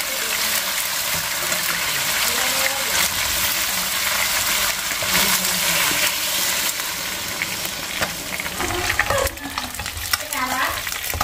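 Food sizzling in hot oil in a wok, with a dense steady crackle as ingredients are tipped in and stirred; near the end, fish frying in oil.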